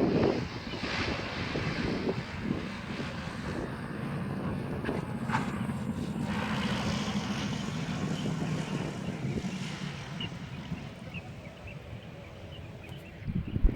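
Boeing 787 jet engines running with a steady low hum and rumble that eases slightly near the end, mixed with wind noise on the microphone.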